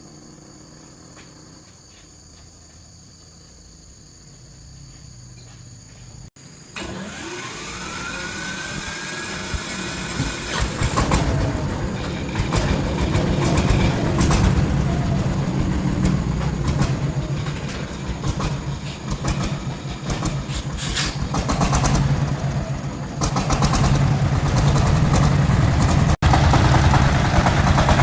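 Faint insect chirring, then about seven seconds in an engine is cranked with a rising starter whine. It catches and runs loudly with a rapid clatter.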